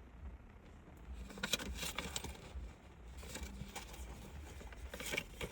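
Faint, irregular small clicks and taps inside a parked car's cabin, over a low steady hum.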